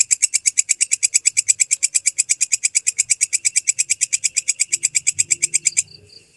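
Walang kecek (belalang kecek) katydid stridulating: a loud, fast, even train of rasping pulses, about ten a second, that cuts off suddenly near the end.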